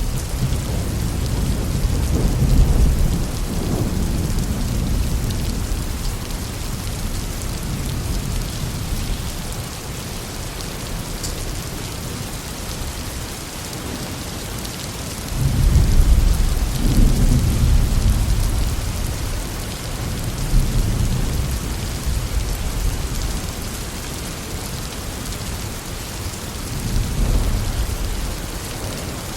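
Heavy, steady rain with thunder rumbling beneath it in long low rolls that swell and fade; the loudest roll breaks in about halfway through, with weaker rolls near the start and near the end.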